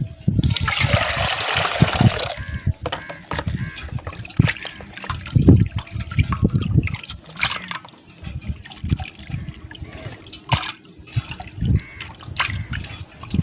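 Water poured out in a splash for about two seconds near the start, then scattered light clicks, knocks and small splashes of water as prawns are washed and cleaned by hand.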